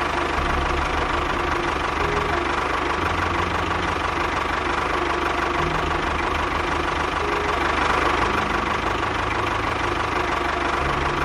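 A small motor running steadily, with a constant hum and a faint steady whine.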